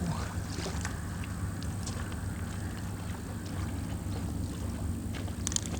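Steady low rumble of wind and water around a small boat, with a few light clicks and knocks.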